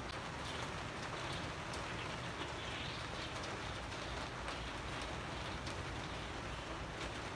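Steady rain falling, with occasional sharp ticks of single drops striking nearby surfaces.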